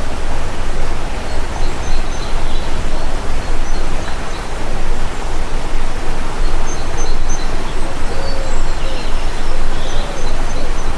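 Stream water rushing steadily, with small birds chirping faintly over it through much of the stretch and a few lower call notes in the second half.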